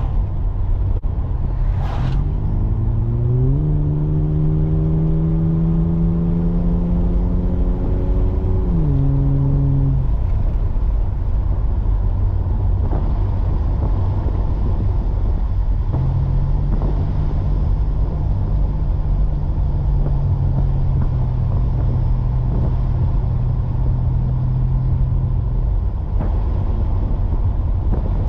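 Ford EL Falcon's 4.0-litre SOHC inline-six running through Pacemaker headers, a high-flow cat and a 2.5-inch sports exhaust, under way over a constant low rumble. The engine note climbs in pitch in a couple of steps a few seconds in, holds, drops off near ten seconds, then a steady drone returns from about sixteen to twenty-six seconds.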